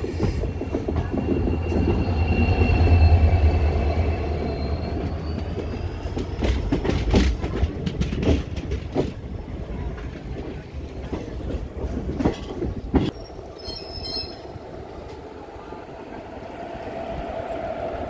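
Train wheels on rails as an oncoming electric train passes close by: a rumble that swells to its loudest about three seconds in, with a thin, high wheel squeal. Then sharp clicks and clacks as wheels cross rail joints, settling into a quieter steady running noise.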